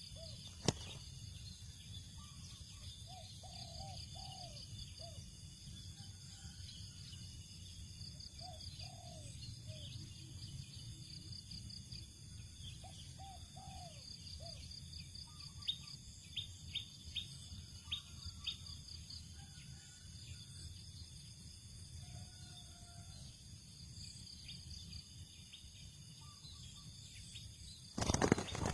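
Spotted dove cooing in short phrases of a few arching notes, repeated every four or five seconds, over a steady low rumble and thin high chirping. A run of sharp clicks comes about halfway through, and a loud rustling burst comes right at the end.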